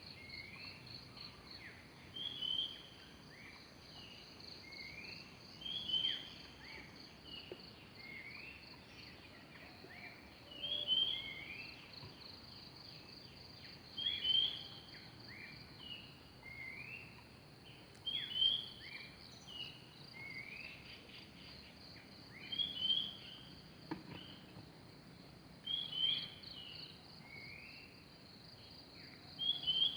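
A forest bird repeats a short phrase of a few gliding whistled notes every three to four seconds over a steady, high insect trill.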